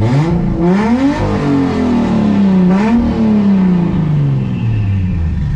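Big-turbo Toyota JZ inline-six being revved while stationary, running on a freshly made base map on an aftermarket ECU. Engine speed climbs to a peak about a second in, eases off, climbs again near three seconds, then sinks slowly back toward idle.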